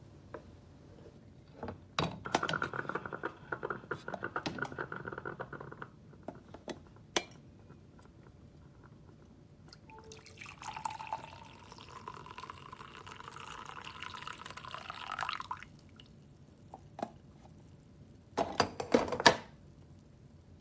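Water being poured, in two runs of a few seconds each, with scattered clicks. Near the end comes a short cluster of loud knocks.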